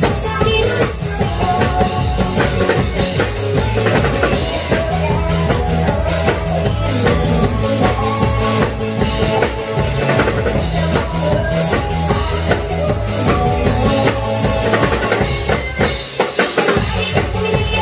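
Drum kit played along with loud backing music, a steady beat of bass drum and snare with rimshots; the bass drops out briefly about a second before the end.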